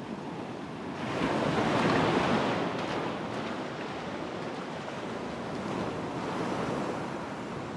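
Ocean surf breaking on a sandy beach: a wave crashes and washes up about a second in, loudest around two seconds, then eases into a steady wash, with a smaller swell near the end.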